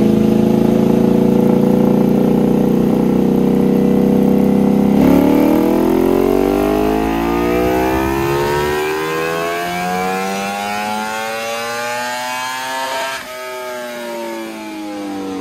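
2023 Ducati Panigale V4R's 999cc 90-degree V4, breathing through a full titanium Akrapovic racing exhaust, running on a dyno. It holds steady revs for about five seconds. Then the revs climb steadily for about eight seconds in a pull, and near the end the throttle shuts and the revs fall away.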